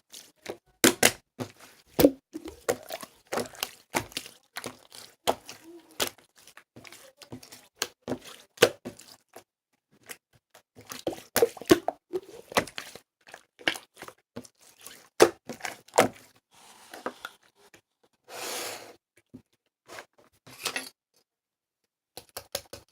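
Irregular clicks, taps and knocks, as of small objects being handled, with a short rustling noise about eighteen seconds in.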